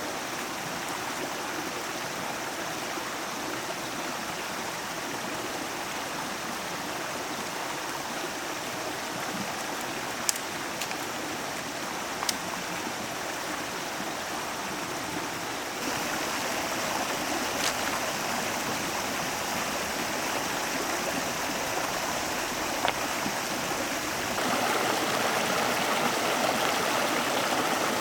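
Steady rushing of a flowing stream, with a few isolated sharp clicks; the rushing grows louder in two steps, at about the middle and again near the end.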